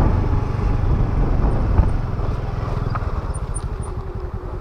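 Honda Activa scooter's small single-cylinder engine running while riding, with low wind rumble; the rumble eases off a little about three seconds in.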